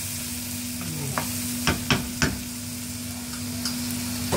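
Tomato sofrito with onion, garlic and peppers sizzling as it fries in oil in a pan while being stirred, with three sharp knocks about halfway through and another near the end.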